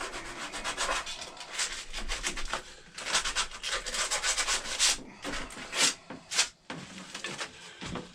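Sandpaper rubbed back and forth by hand on a wooden axe handle in quick, rapid strokes, with a few short pauses in the second half.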